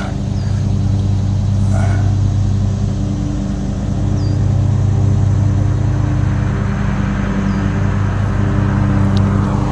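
Steady low hum of a running motor, unchanging throughout, with a few faint short high chirps over it.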